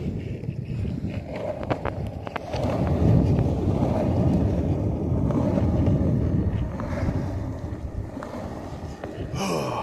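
Skateboard wheels rolling on pavement: a steady low rumble with a few sharp clicks about two seconds in, with wind buffeting the microphone.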